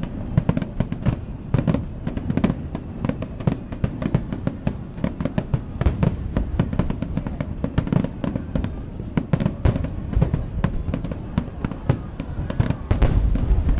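Fireworks finale: a dense, unbroken barrage of aerial shell bursts, many sharp bangs a second over a deep rolling rumble, growing louder near the end.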